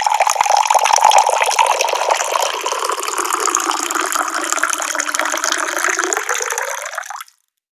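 Tap water pouring and splashing in a steady stream. It cuts off abruptly near the end, into a brief dead silence.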